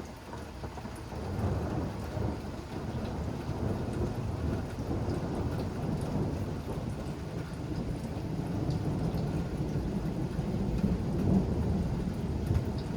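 Thunder rumbling and rolling on for several seconds after a nearby lightning strike, building about a second in, with rain falling.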